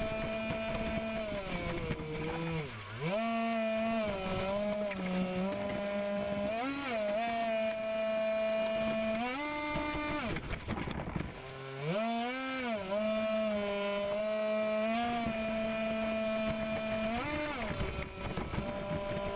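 RC air boat's motor and propeller whining, its pitch falling as the throttle eases about three seconds in and again near twelve seconds, then climbing back, with several short throttle blips. A stretch of rushing noise comes around ten seconds in.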